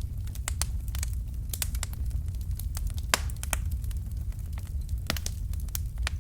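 Fireplace fire crackling, with irregular sharp pops and snaps over a steady low rumble of the flames. One pop about three seconds in is louder than the rest.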